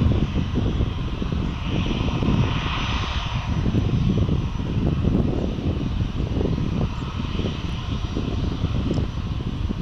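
Jet engines of a Boeing 737-800 (CFM56-7B turbofans) giving a loud, steady, rough low rumble.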